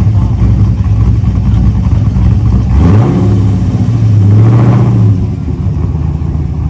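GM LS V8 engine in an LS-swapped BMW idling, revved up about three seconds in, held for about two seconds, then let back down to idle.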